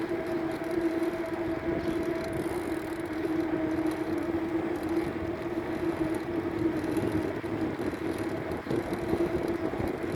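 Bicycle riding along a paved road: a steady rushing of tyres and air, with a constant hum running underneath that fades a little about two-thirds of the way through.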